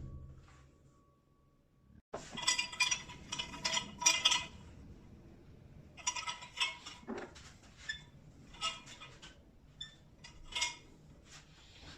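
Light metallic clinks and clatters in short irregular bursts, starting about two seconds in: small metal hardware being handled.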